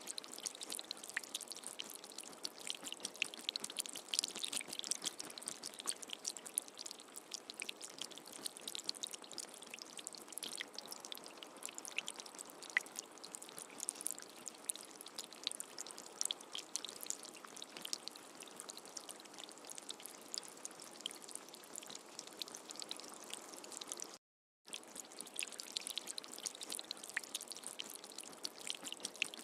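Steady rain with a dense patter of small drops. The sound cuts out completely for about half a second a little past three-quarters of the way through, then resumes unchanged.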